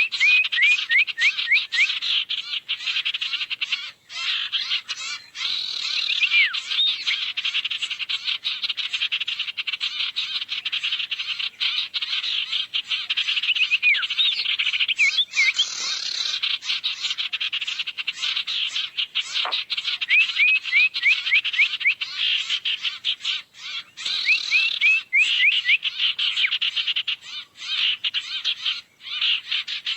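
Sirtu bird lure call: a dense, rapid chattering trill, broken every few seconds by short runs of quick, curved whistled notes.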